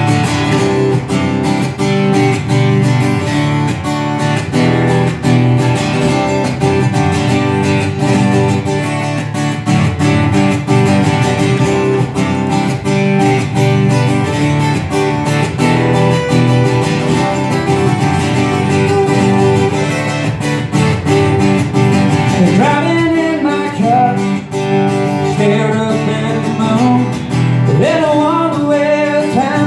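Live guitar-led song with steady strumming; a voice comes in singing near the end.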